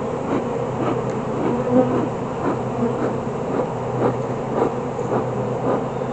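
Honeybees buzzing around an open hive: a steady hum, with faint scattered clicks.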